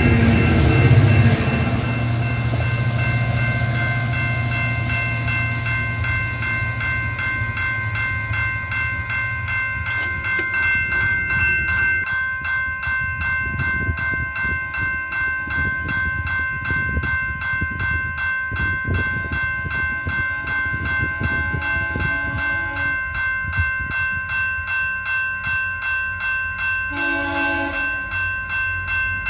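A passenger train passing close by: a heavy low rumble from the locomotive at first, then the fast, even clickety-clack of coach wheels over rail joints, with a steady high whine throughout. A short horn blast sounds near the end.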